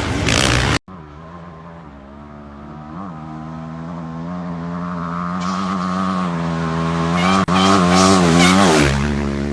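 Motocross bike engine running hard, growing steadily louder over several seconds, its pitch wavering with the throttle, after a sudden cut about a second in.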